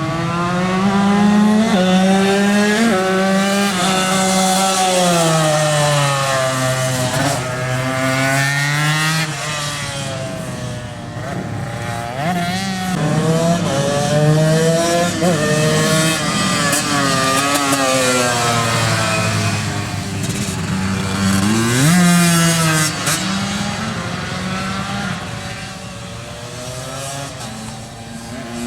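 Tuned two-stroke race motorcycle engines running hard, more than one at a time, their pitch climbing with throttle and dropping back over and over through gear changes. There are sharp rises about three seconds in and again near twenty-two seconds.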